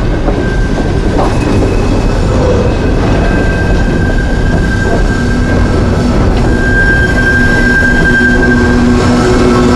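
Coal train's freight cars rolling past close by: a loud, steady rumble of steel wheels on rail, with thin high wheel squeal that grows stronger in the second half.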